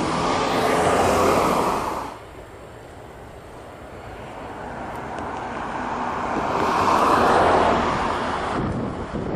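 A vehicle passing by twice, its rushing noise swelling and dying away. The first pass cuts off abruptly about two seconds in; the second builds slowly and peaks near the end.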